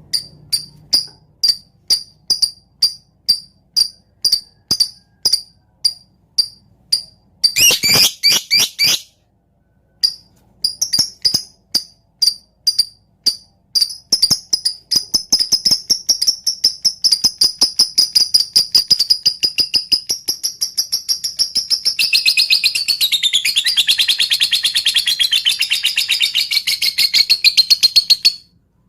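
Lovebird giving sharp, high chips a few times a second, the 'ngetik' call, broken by a brief gap. The chips then speed up into a rapid run and run on into a long, wavering trill for about six seconds near the end, the 'ngekek'.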